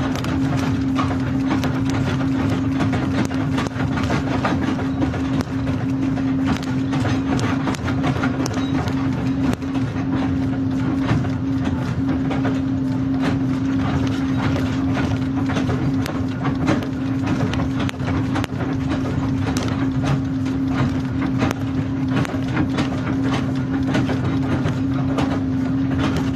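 Kobelco hydraulic excavator's diesel engine running at a steady speed, a constant hum, under a dense, irregular clatter of knocks and rattles.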